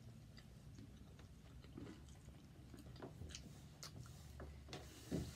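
Faint chewing of fried egg rolls, with a few scattered soft mouth clicks.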